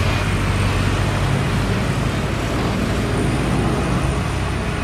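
Jet aircraft engine noise: a steady, loud roar with a deep rumble and a faint high whine held throughout.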